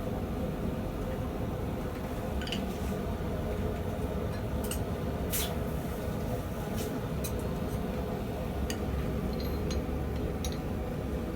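Propane forge burner running steadily, with scattered light metallic clinks of steel being handled.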